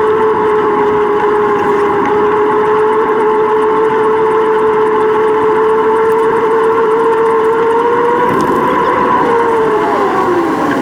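Riding noise from a bicycle on a GoPro: a steady hum under a haze of wind and rolling noise, the hum wavering and dropping in pitch near the end.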